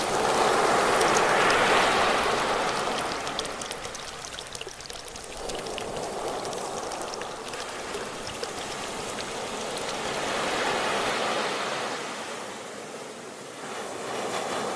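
Ocean waves washing in and drawing back, a rushing noise that swells and fades twice: a big surge about a second in and a smaller one about ten seconds in.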